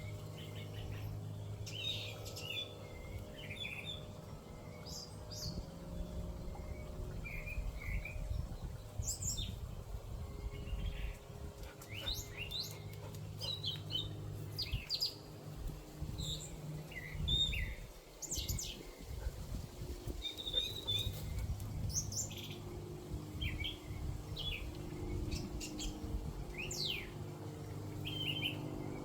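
A songbird singing a varied run of chirps and quick sweeping whistled notes, over a steady low hum.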